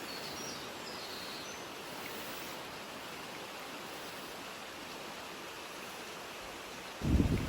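Steady rushing of a mountain stream, with a few faint, short, high bird chirps in the first second or two. Near the end, wind suddenly starts buffeting the microphone with loud, low gusts.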